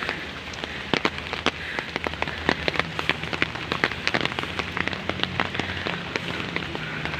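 Heavy rain falling, with many sharp, irregular drops tapping close by over a steady rush, and a faint low hum underneath.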